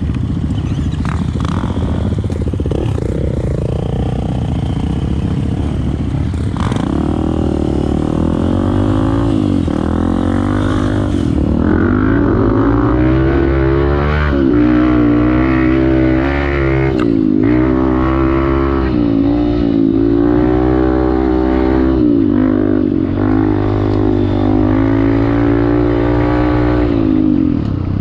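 Off-road motorcycle engine being ridden hard in sand. The engine note rises and falls over and over as the throttle opens and closes through gear changes, becoming clearer from about seven seconds in.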